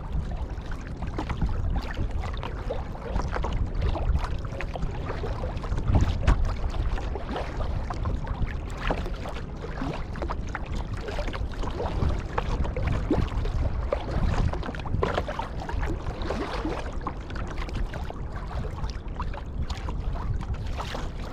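Sea kayak being paddled: paddle blades dip and splash in the water again and again, and water laps at the hull over a steady low rumble.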